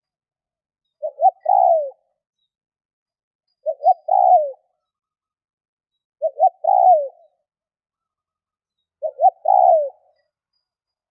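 Spotted dove (tekukur) cooing: four phrases a little under three seconds apart, each two short notes followed by a longer coo that falls at the end.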